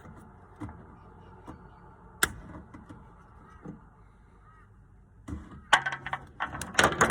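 Handling noise as the head is worked off a Paslode gas fuel cylinder: a few scattered clicks, one sharp one about two seconds in, then a dense flurry of clicks and rattles over the last two seconds.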